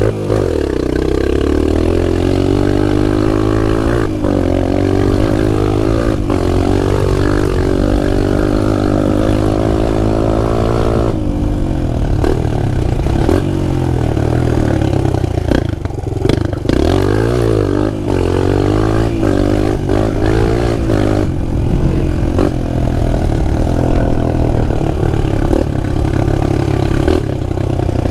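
Pit bike's small engine running and being revved, its pitch rising and falling again and again, the sound dulling about eleven seconds in.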